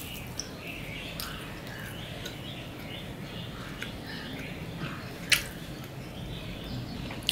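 A person chewing food softly, with small birds chirping in the background and one sharp click a little past five seconds in.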